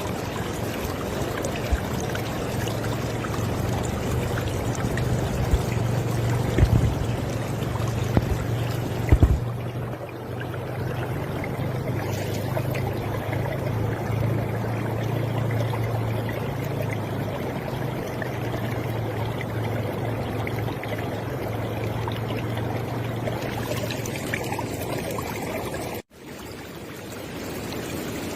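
River water flowing steadily, with a low rumble under the rushing. The sound cuts out for a moment shortly before the end and then returns.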